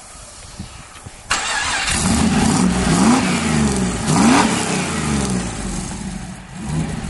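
LS1 V8 engine in a rock-crawling buggy starting up on its first restart after being reinstalled: it catches suddenly about a second in, is revved twice with rising blips, then settles toward a rough idle.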